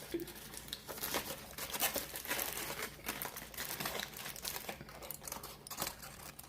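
Food wrapper crinkling and rustling as it is handled and opened, a dense run of small crackles with a few sharper ones.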